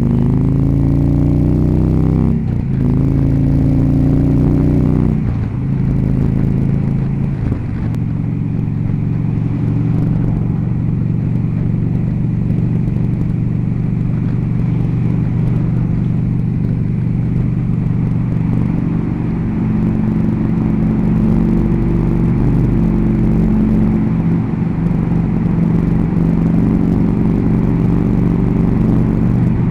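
Harley-Davidson Electra Glide V-twin engine under way, its note changing in steps through the first five seconds as the bike shifts gears, then settling into a steady low run.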